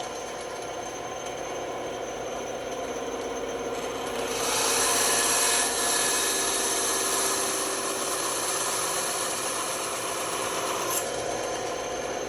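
Band saw running, its blade cutting through a small workpiece; the cutting gets louder from about four seconds in and eases off sharply about eleven seconds in.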